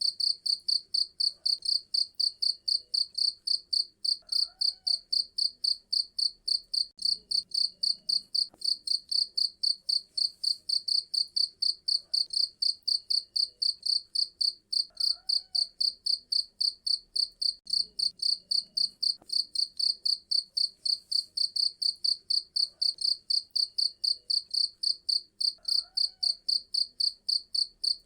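Cricket chirping steadily in a fast, even rhythm of about three high chirps a second.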